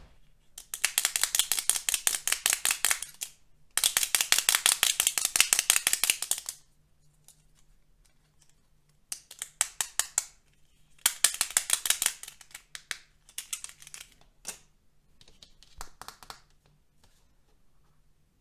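Rapid clicking or rattling in bursts: two long runs of a few seconds each, then several shorter, sparser runs with pauses between.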